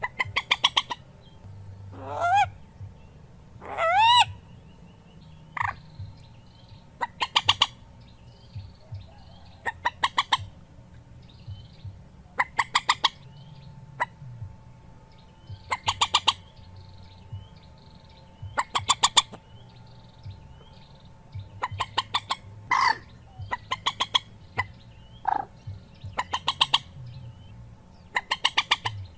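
A mandar, a rail, calling on a bird-luring recording. It gives short bouts of rapid stuttering notes every two to three seconds, with two drawn-out rising calls about two and four seconds in.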